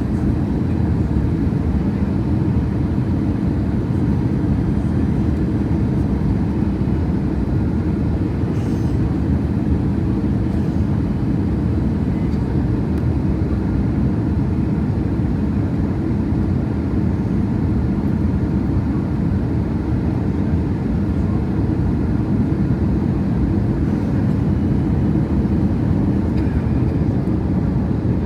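Steady cabin noise inside an Airbus A321: the engines and airflow make an even rumble at a constant level.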